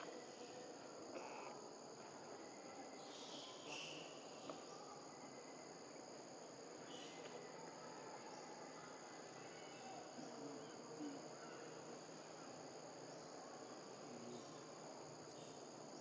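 Steady, high-pitched insect chorus (crickets or cicadas) buzzing on two level tones, faint, with a few soft rustles about three to four seconds in.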